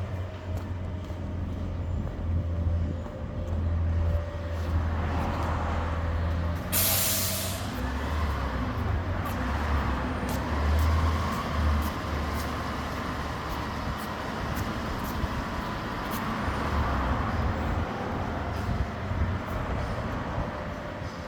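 Garbage truck's diesel engine running steadily, with a short, loud air-brake hiss about seven seconds in and a steady whine alongside.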